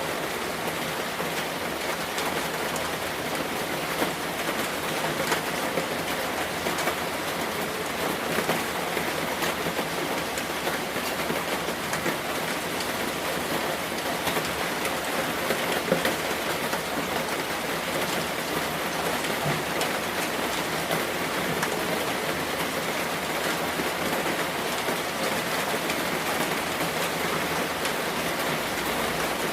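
Steady rain falling, with the dense patter of drops on a surface.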